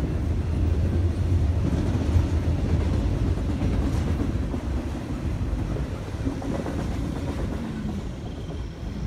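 A freight train's cars rolling past at about 55–60 mph: double-stack container cars, then covered hoppers. The noise of wheels on rails is steady and eases off slightly in the second half.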